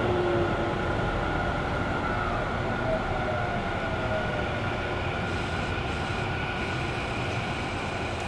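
Running sound heard from inside a Tobu 50000-series electric train car: a steady rumble of wheels on rail with a faint electric motor whine.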